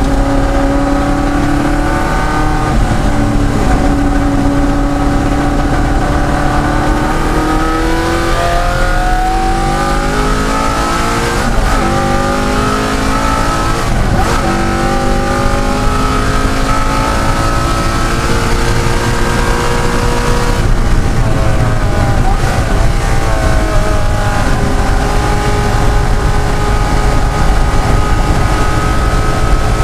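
De Tomaso Pantera's Ford V8 engine at racing speed, loud and continuous, its pitch climbing under acceleration and dropping sharply at each gear change or lift, several times over.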